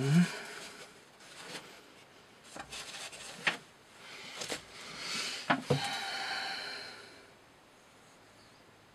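Irregular handling sounds: rubbing and scraping with two sharp knocks, dying away to quiet room noise near the end.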